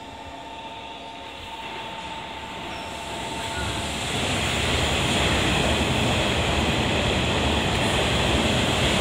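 Nishitetsu electric train at the platform: faint whining tones in the first two seconds, then from about four seconds in a loud, steady running noise of a train on the rails.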